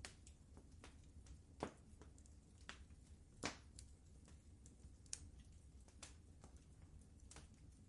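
Wood fire crackling faintly in a fireplace: irregular sharp pops and snaps over a low steady rumble, the loudest pop about three and a half seconds in.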